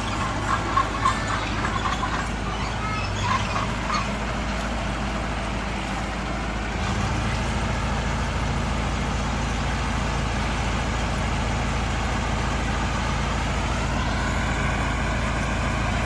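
Heavy diesel engine of earthmoving machinery running steadily. About seven seconds in it gets deeper and a little louder, as if put under load. There are a few sharp knocks in the first seconds and a rising whine near the end.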